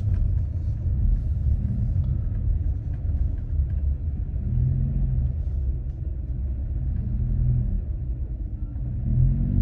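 Car driving at low speed, a steady low rumble of engine and road noise. A low hum swells briefly twice, about halfway through and near the end.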